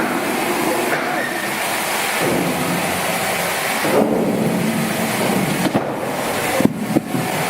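Sawmill machinery running, a loud, dense, steady noise with a few sharp knocks near the end.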